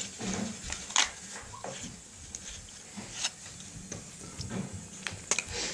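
Irregular clicks and taps from a Moluccan cockatoo moving about on her bird stand.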